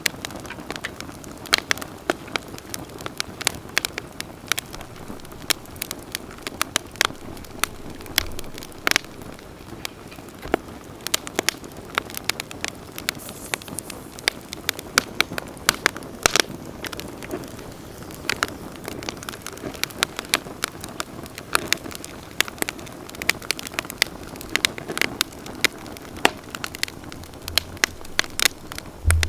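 Wood campfire burning, crackling and popping irregularly over a soft steady hiss of flame.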